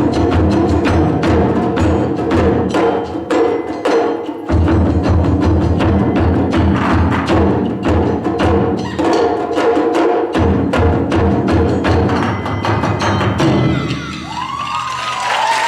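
Ensemble of Japanese taiko drums playing a fast, dense rhythm of strikes with deep bass drum hits, the big drums dropping out briefly twice. The drumming stops about 14 seconds in, and audience applause begins near the end.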